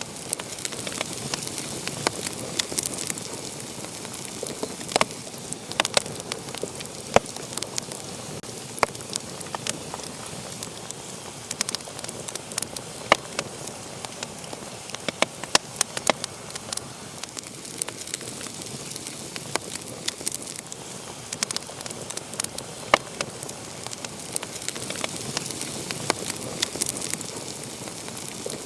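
Wood fire burning in a fireplace: a steady hiss of flames with irregular sharp crackles and pops, several a second.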